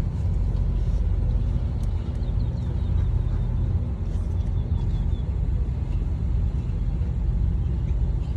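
Steady low rumble of a car running, with a few faint high chirps over it.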